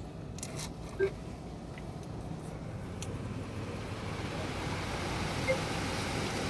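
Automatic car wash machinery running: a steady low hum with a hiss that grows louder, and a brief squeak about a second in.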